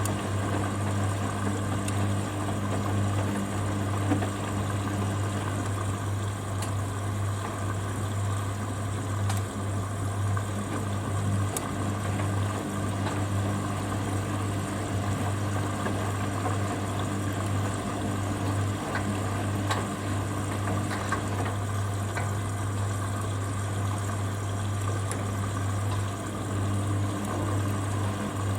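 Hoover Dynamic Next washing machine in its first spin stage: the drum turns while the drain pump hums steadily as water runs out.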